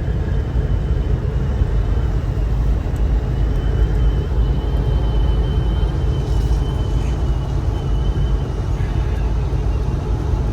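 Steady road and engine rumble of a car driving, heard inside the cabin, with a faint thin high whine that fades out near the end.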